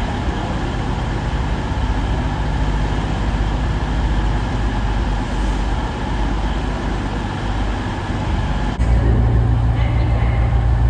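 A diesel train's engine running with a steady low hum, which suddenly gets louder near the end as the engine note steps up.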